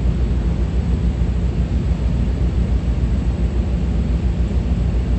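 Steady low rumble with wind buffeting the microphone, heard from the deck of a towboat.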